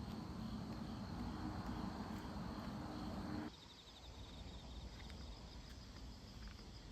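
Crickets chirping, a steady high trill with fast pulses. For the first three and a half seconds a low hum with a steady tone lies under it, then cuts off abruptly.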